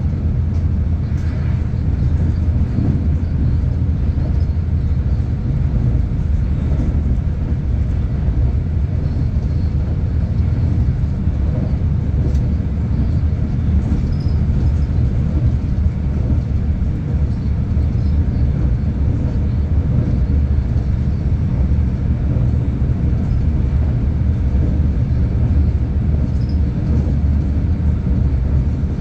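Steady low rumble of a V/Line passenger train running along the line, heard from on board.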